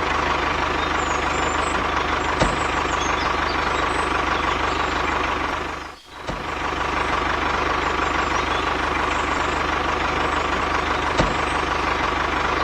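An engine running steadily, with a steady whine in it and a few faint clicks. The sound cuts out briefly about halfway through, then resumes unchanged.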